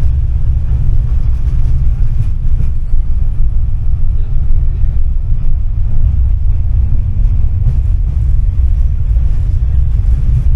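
Tram running between stops, heard from on board: a steady low rumble from the motors and the wheels on the rails.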